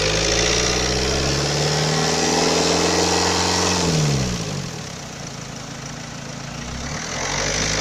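Renault K9K 1.5 dCi diesel engine revved up gradually and held for a few seconds, dropping back to idle about four seconds in, then revving again near the end.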